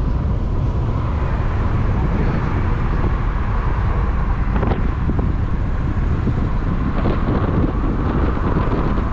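Steady wind noise on the microphone over the low rumble of a moving vehicle.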